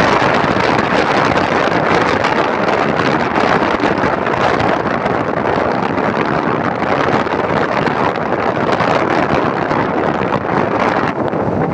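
Strong wind blowing against the microphone, a loud, steady rushing noise.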